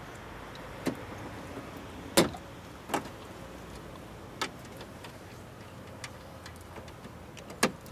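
A handful of sharp clicks and knocks from the Ford Expedition's door handle and its plastic parts being handled and fitted while the handle is reconnected. The clicks are irregular, with the loudest about two seconds in and near the end, over a steady low hum.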